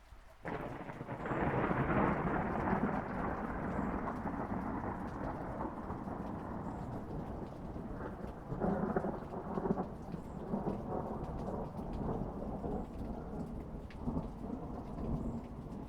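Thunder: a clap breaks about half a second in and rolls on as a long rumble, swelling again about nine seconds in and near the end, over steady rain.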